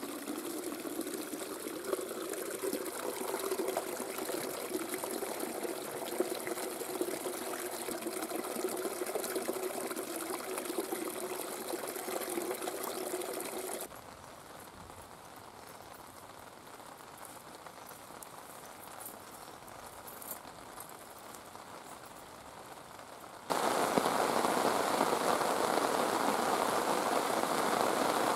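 Heavy rain falling and pattering on a surface, steady noise that drops abruptly to a quieter stretch about halfway through and jumps back up, louder, near the end.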